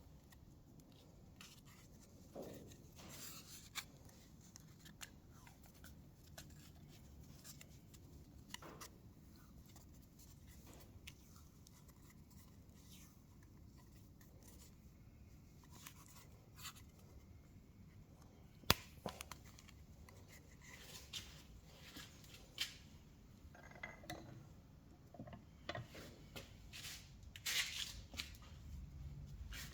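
Faint workbench handling: small metal brake parts clicking, tapping and scraping at irregular moments, with one sharp click a little past halfway and busier handling near the end.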